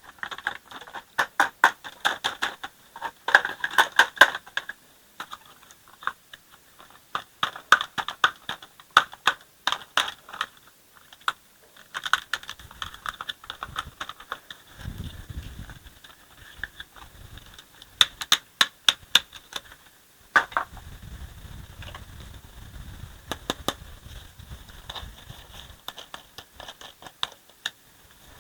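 Plastic toy dump truck being handled, its parts clicking and rattling in quick irregular clusters, with a low rumble twice, briefly about halfway and then for several seconds after.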